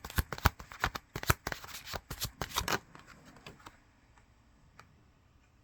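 A deck of Kipper fortune-telling cards being shuffled by hand: a quick run of crisp card flicks and slaps that stops about three seconds in, with one more faint tick a little later.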